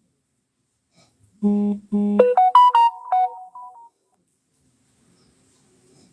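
Short electronic phone jingle: two low notes, then a quick run of higher notes that climbs and steps back down, lasting about two and a half seconds.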